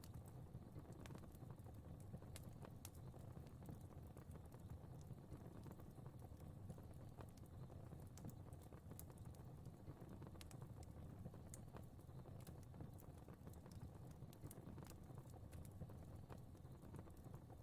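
Fire crackling faintly: irregular sharp pops and snaps over a low, steady rumble.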